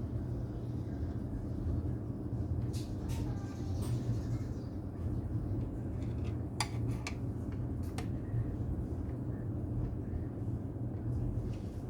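A steady low hum with a handful of light, sharp clicks and knocks, mostly in the middle, like parts or tools being handled on a workbench.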